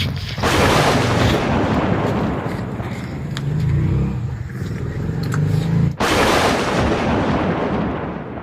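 Thunder: a sudden crack of thunder about half a second in and another about six seconds in, each running on into a long heavy rumble.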